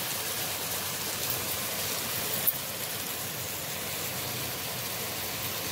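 Chicken curry frying in a clay pot, a steady sizzle, with one light click about two and a half seconds in.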